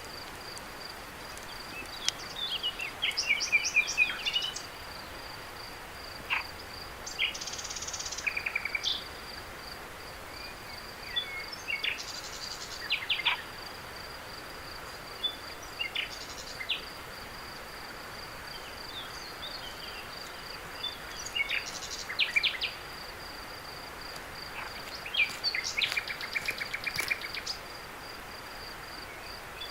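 A cricket's steady, high-pitched pulsing trill over a faint background hiss, with short bursts of bird chirps breaking in every few seconds.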